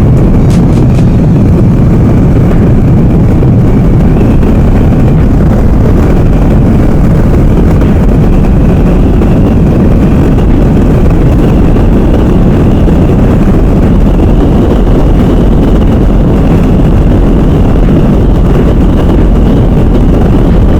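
Steady, loud riding noise from a moving motorcycle: heavy wind rumble on the microphone over the running engine.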